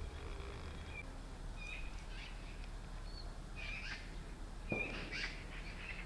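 Birds calling: short, high chirps repeated about once a second, some with quick rising and falling notes, over a low steady rumble. There is a single sharp knock about three quarters of the way through.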